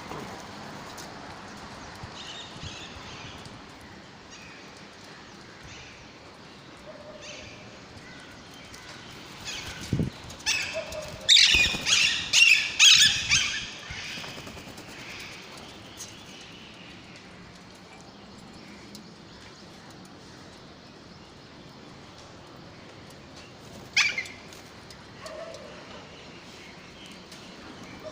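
Parrot chicks calling: a loud burst of about six rapid, harsh, high-pitched calls near the middle, and one sharp call later on, over a low steady background.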